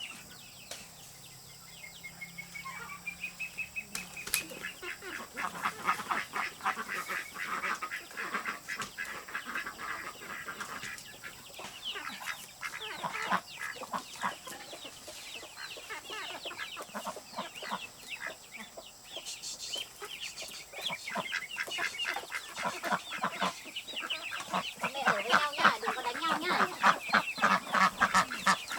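Domestic poultry clucking and calling in quick, stuttering runs, busiest a few seconds in and louder again near the end.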